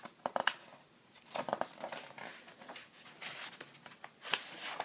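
Paper pages of a picture book being handled and turned, rustling and crinkling in short irregular bursts.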